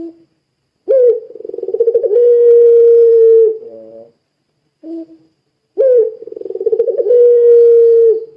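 Puter pelung dove giving two long cooing calls. Each begins with a sharp rising note, rolls through a pulsing stretch, then holds one long steady tone that drops away at the end. A short low coo comes before each call.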